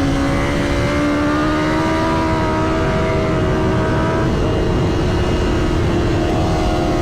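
A motor vehicle's engine pulling under load, its note climbing slowly for the first few seconds and then holding steady, under heavy road and wind noise.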